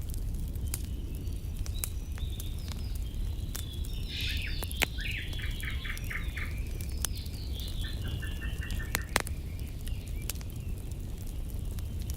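Campfire crackling with scattered sharp pops, two of them louder, over a steady low rumble; a small songbird sings a couple of chirping, trilled phrases in the middle.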